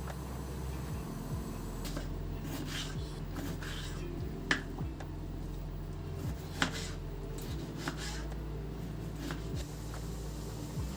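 A few light clicks and taps of handling over a steady low hum, with two sharper clicks about four and a half and six and a half seconds in.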